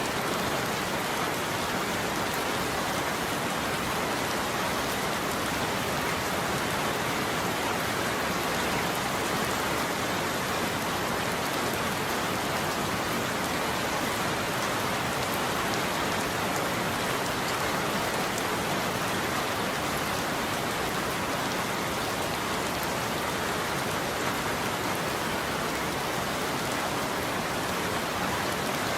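Steady rain falling on a roof, an even patter that does not let up. No thunder is heard.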